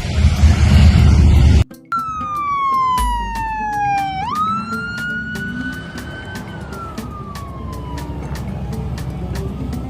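Loud motorcycle engines rumbling as the bikes go by, cut off suddenly after under two seconds. Then a siren sounds, one long slow wail that falls, rises again and slowly falls away, over a faint steady tick.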